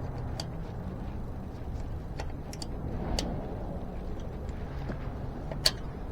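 Small metallic clicks and ticks from a spoke wrench working on a bicycle wheel's spoke nipples, scattered and irregular, with one sharper click near the end, over a steady low background rumble.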